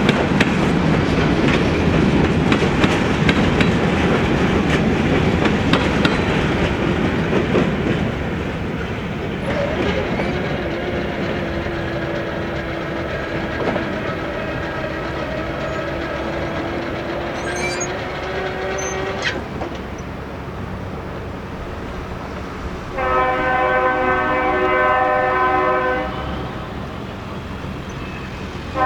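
Diesel-hauled train rolling past, wheels clattering over the rail joints, then fading to a long faint whine. Near the end a locomotive horn sounds one chord blast of about three seconds, and a second blast starts at the very end.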